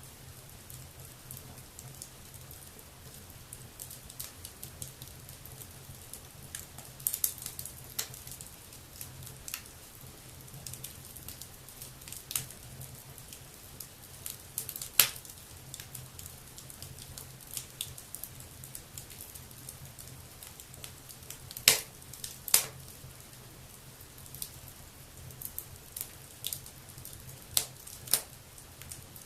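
Wood fire burning in a fireplace, crackling with scattered sharp pops, the loudest about halfway through and a pair close together about three quarters of the way in.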